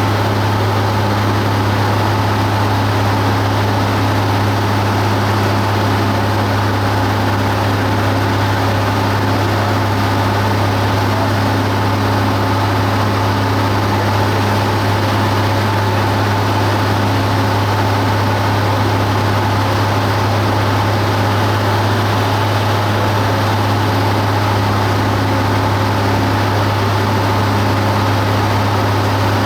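Cessna 172 Skyhawk's piston engine and propeller droning steadily in flight, a constant low hum with no change in power.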